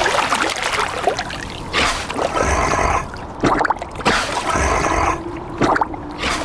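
Water splashing and trickling in uneven gushes.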